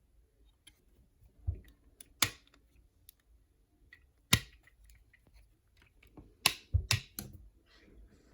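Plastic parts of a Transformers action figure clicking and knocking as it is handled and transformed: a scattering of sharp clicks, the loudest at about two, four and four and a half seconds in, with a quick run of three near the end.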